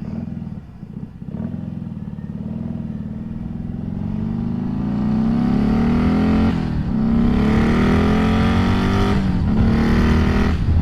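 Turbocharged Harley-Davidson 107 V-twin accelerating hard under the rider, its pitch climbing steadily. It shifts up twice, the pitch dropping briefly each time, about two-thirds of the way in and again near the end, before climbing again.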